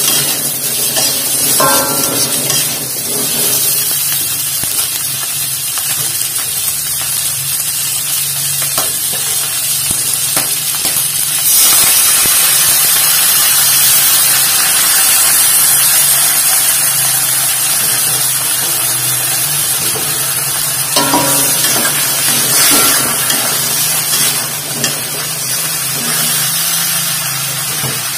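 Salted squid with onion and chillies sizzling in a hot wok, a metal spatula clinking and scraping against the pan now and then. Partway through, a splash of cold water hits the hot wok and the sizzle turns louder for a few seconds.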